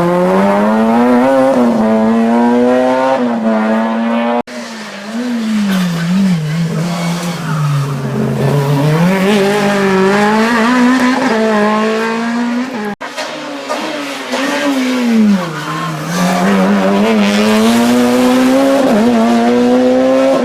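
Hill-climb race car engines revving hard, their pitch climbing and then dropping again and again as they shift gears and brake for corners. The sound breaks off abruptly twice, about four seconds in and near the middle, as one car's run gives way to another's.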